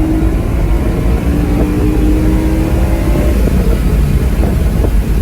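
BMW E9x M3's 4.0-litre V8 through an aftermarket valved exhaust, running steadily under load; its note holds level and creeps slightly up in pitch over a couple of seconds, over a deep low drone.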